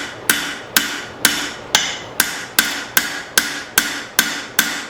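Hammer striking hot leaf-spring steel on an anvil, forging the bevels into a knife blade: a steady rhythm of about two blows a second, each with a brief ring.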